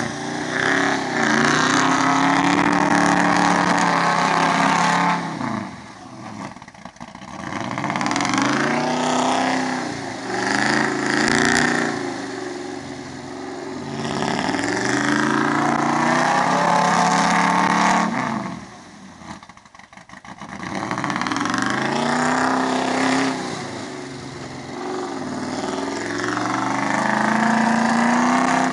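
Old 4x4 truck engine revving hard in repeated surges, its pitch climbing and falling again and again, typical of wheeling through mud, with two brief lulls where it drops off.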